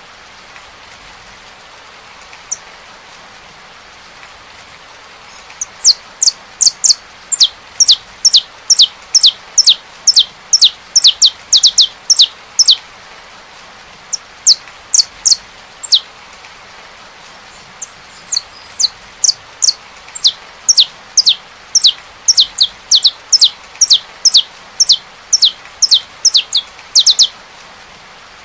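Saffron finch singing: a long run of sharp, downward-sweeping high notes, about three a second, starting about five seconds in with a couple of short breaks, over the steady hiss of rain.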